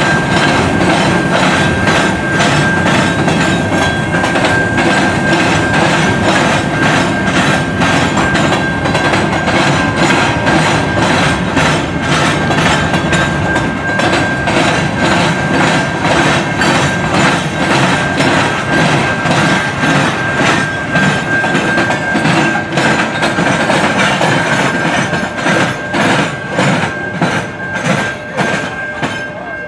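Railroad cars of a passing train rolling by, the wheels clicking in a rapid rhythm over rail joints, with a steady high wheel squeal over the rumble. It eases off slightly near the end.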